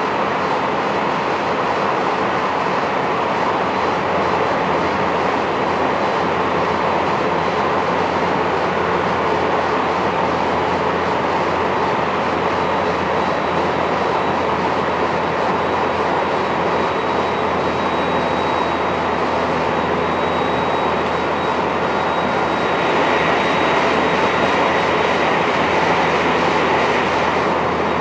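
In-car running noise of a JR West 223-1000 series electric multiple unit motor car (KuMoHa 223-1008) travelling at speed: a steady rumble and hiss of the wheels on the rails, with a thin high tone in the background. For several seconds near the end the hiss brightens and grows slightly louder, then eases again.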